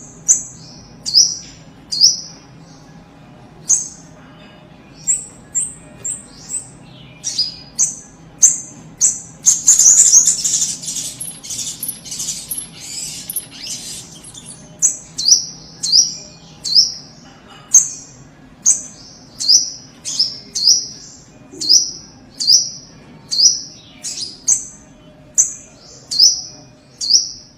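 Spiderhunter (sogok ontong) calling: a long series of short, sharp, high chirps, one about every half second to a second. About ten seconds in there is a few seconds of dense, rapid chattering.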